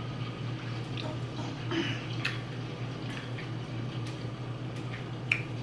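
A few faint, wet mouth clicks and small chewing sounds from someone eating, scattered over a steady low hum.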